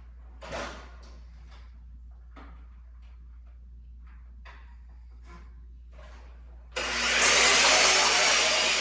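Scattered light knocks of wood being handled, then near the end a power saw starts suddenly and cuts through a piece of wood, loud and steady before it begins to fade.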